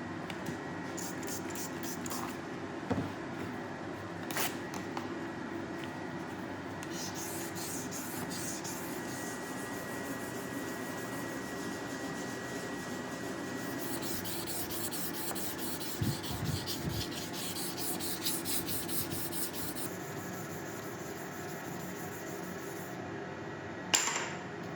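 Hand sanding a steel knife blade: quick back-and-forth rasping strokes of abrasive on steel, in several runs, over a steady background hum. A sharp knock sounds near the end.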